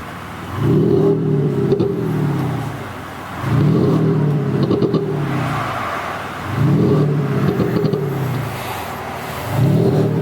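Genesis G80 with an active-sound exhaust system, producing a deep, big-displacement performance exhaust note: four short throttle blips about three seconds apart, each falling away in pitch with pop-and-bang crackles.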